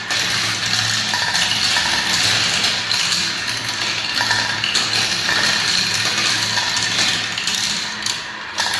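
Many marbles rolling and clattering down a spiral ramp marble run, a dense continuous stream of clicks and rattles, easing briefly near the end.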